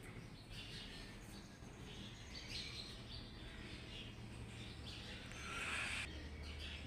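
Faint bird chirps over a steady low hum, the strongest call about five and a half seconds in.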